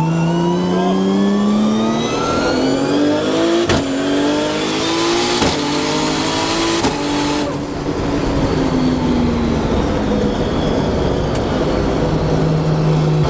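Car engine accelerating hard, climbing in pitch through several quick upshifts of an automatic gearbox, then easing off and falling steadily in pitch as the car slows.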